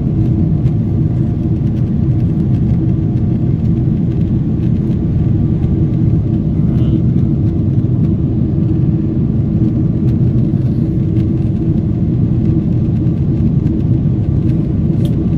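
Steady low rumble of a Boeing 777 in flight heard inside the passenger cabin: the noise of its GE90 engines and the airflow, with a faint steady hum above it.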